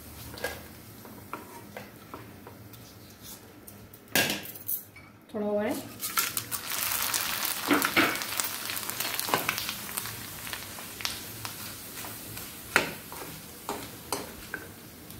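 Raw corn flakes deep-frying in ghee in a nonstick pan, a steel spoon scraping and tapping against the pan as they are stirred and lifted out. About five seconds in, after a short ringing clink, a fresh batch hits the hot ghee and sizzles loudly for several seconds, then settles back to a light fry.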